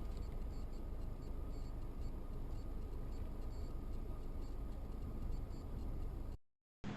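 Steady low road and engine noise of a vehicle driving, as picked up by a dashcam, with a faint steady whine. It cuts off abruptly near the end, followed by a moment of silence.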